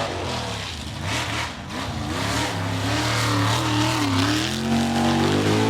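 Truck engine revving up and down, its pitch rising and falling several times and climbing again near the end.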